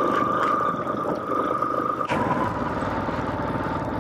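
Motorcycle engine running at low speed under light throttle, its steady tone dropping slightly in pitch about halfway through.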